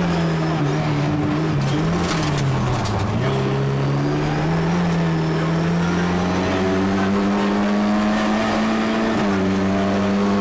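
Rally car engine heard from inside the cabin, driven hard along a stage. Its pitch dips about three seconds in, climbs steadily, then drops again near the end at a gear change. A few sharp ticks come about two seconds in.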